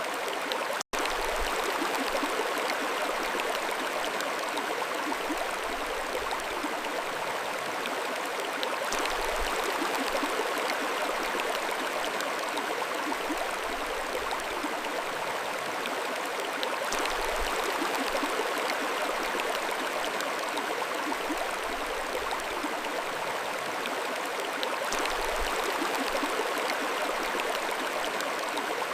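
Steady rush and babble of a flowing mountain stream, cutting out for an instant about a second in.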